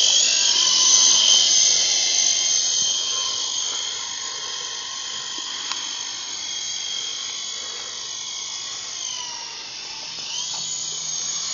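Remote-control helicopter's motor and rotor running with a high whine, which falls in pitch about nine seconds in and rises again a second or so later.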